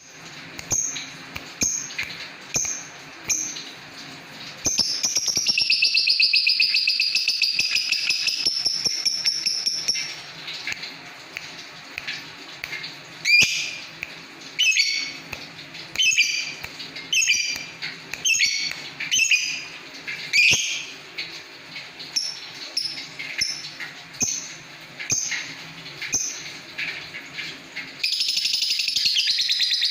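Lovebird calling: short sharp chirps about once a second, broken by a long rapid trill lasting about five seconds starting around five seconds in, and another trill starting near the end.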